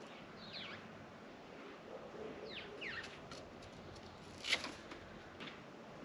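Faint bird chirps: two brief groups of short, high notes that fall in pitch, one near the start and one about halfway through. A sharp click about four and a half seconds in is the loudest sound, with a weaker one a second later.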